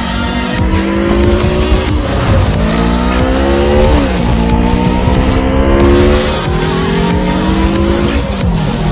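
Sportbike engine accelerating hard through the gears: its pitch climbs steadily, then drops sharply at each upshift, about four shifts in all.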